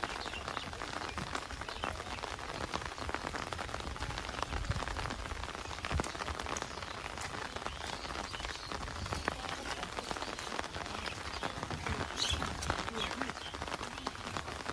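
Heavy monsoon rain falling steadily, with many separate close raindrop hits heard over a dense hiss.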